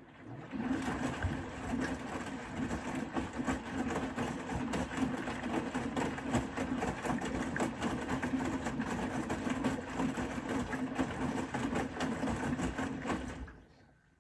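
Bosch Serie 4 WAK20260TR washing machine's drum turning during the wash, its motor humming steadily with the load tumbling, for about thirteen seconds before it stops.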